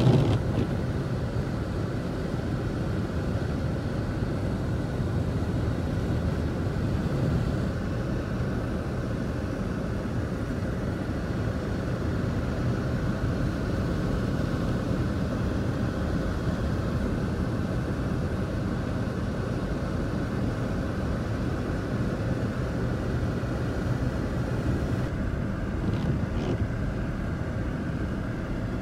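Steady engine and road noise of a vehicle driving, heard from inside the cabin, with a brief knock right at the start.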